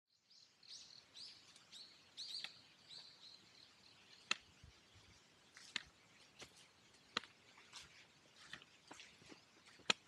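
Small birds chirping in quick high calls for the first few seconds, then scattered sharp taps roughly once a second.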